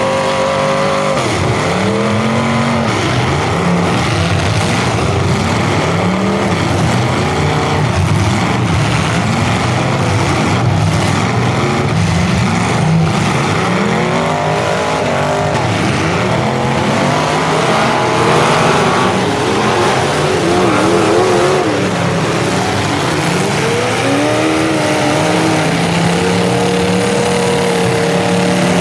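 Several full-size demolition derby cars' engines revving at once, their pitches rising and falling over one another as the cars drive and ram.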